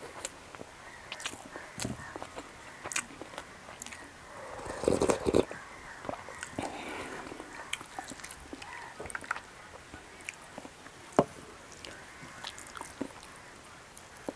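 Close-up eating sounds: chewing and wet mouth clicks and smacks from someone eating rice and curry by hand, with a brief louder rushing noise about five seconds in.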